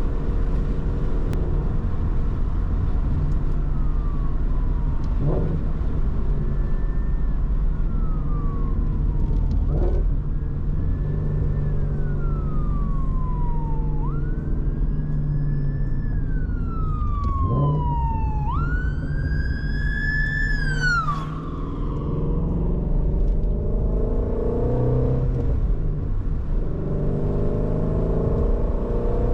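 Shelby GT350's 5.2-litre flat-plane-crank V8 running steadily, while an emergency vehicle's wail siren rises and falls about every four seconds, growing louder, then cuts off suddenly about 21 seconds in.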